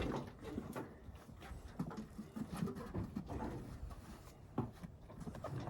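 Faint scattered rubbing and light clicks of a dirt bike's tie-down strap being pulled and snugged tighter.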